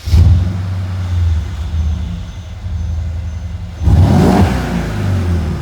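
Mercedes CLS 550's twin-turbo V8 running with its muffler and resonator deleted and an X-pipe fitted, a steady deep exhaust drone, with a short throttle blip that swells louder and raspier about four seconds in.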